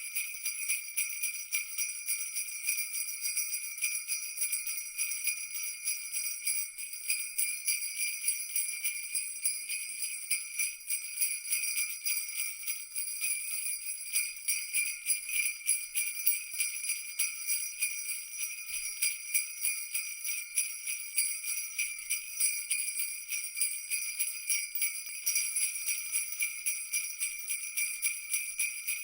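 Jingle bells shaken continuously, a dense rapid jingling that keeps on without pause. Their bright ringing sits high in pitch.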